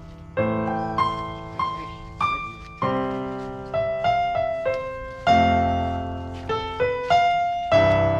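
Piano music: a melody of struck notes and chords, each note ringing and fading before the next.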